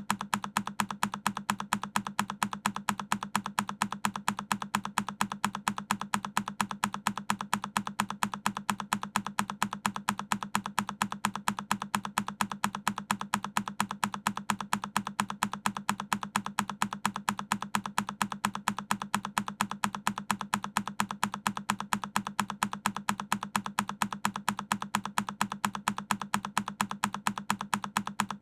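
A single key on a Keychron K10 mechanical keyboard being pressed over and over as a looped sound effect: short, evenly spaced clicks, several a second, at an unchanging pace.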